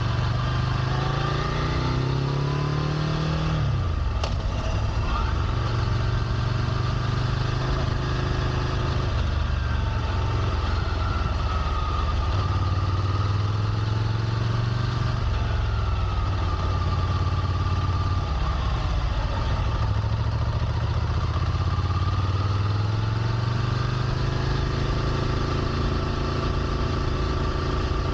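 Ducati Scrambler Nightshift's air-cooled 803 cc L-twin running. The engine speed climbs over the first few seconds and drops sharply about four seconds in, with a single click, then swells and eases gently several more times.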